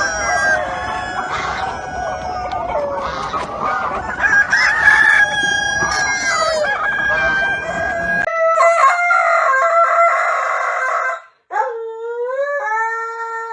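Roosters crowing, several calls overlapping, with hens clucking. About eight seconds in the background noise cuts out and long, clean held calls follow, one rising at its start.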